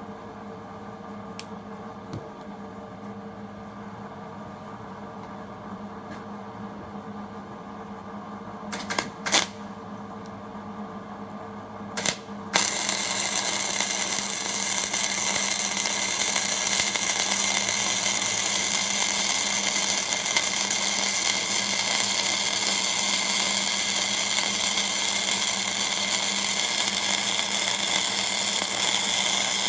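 Hobart Handler 140 flux-core wire welder on a hot setting: a steady low hum with a couple of brief arc strikes, then about twelve seconds in a continuous crackling arc as a bead is run, lasting to the end.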